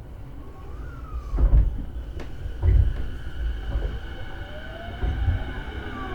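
Interior running sound of a JR East E233-series electric train: steady rumble with three heavy thumps from the wheels on the track, and a motor whine rising in pitch.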